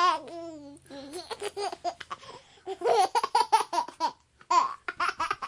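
Baby laughing and giggling in short, quick bursts. It comes after the fading end of a wavering cry in the first moment.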